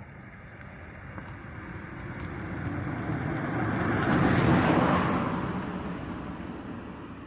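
A car drives past, its engine and tyre noise growing louder to a peak about four and a half seconds in, then fading away.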